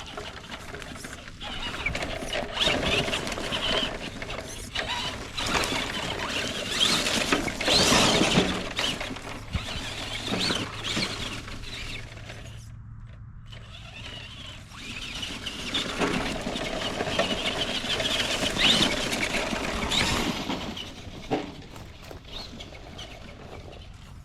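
1:10 solid-axle RC monster truck (Cen B50 / Jegs Hooligan) driven hard over the forest floor: its electric motor and gears whir under throttle while the tyres scrabble through leaves and brush. The driving comes in two long bursts, with a short break about halfway.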